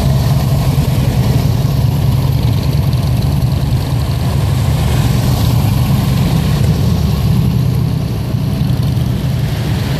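Vehicle engines running steadily at low speed, a continuous low rumble.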